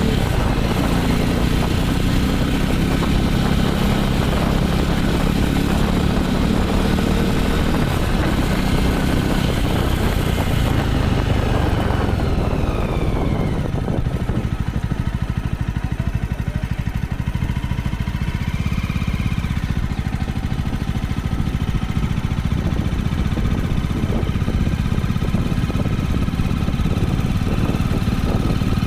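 Jawa 300 motorcycle's single-cylinder engine running. Its pitch falls about twelve seconds in, and it settles to a lower, steadier idle.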